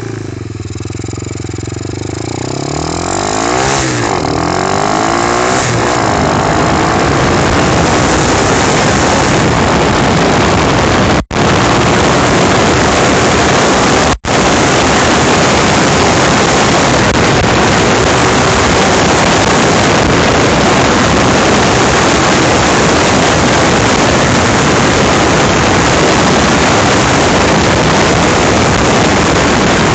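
Apollo dirt bike engine revving, its pitch rising and falling a few times as it speeds up. It then settles into a loud, steady rush of engine and wind noise at speed. The sound cuts out twice, very briefly, about 11 and 14 seconds in.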